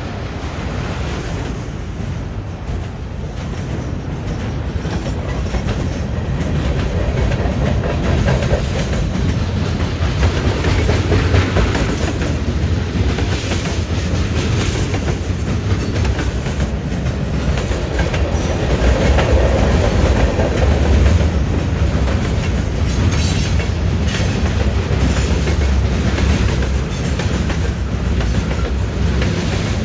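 Freight train rolling past, a steady low rumble with wheels clacking over rail joints and a junction switch, growing louder over the first ten seconds or so.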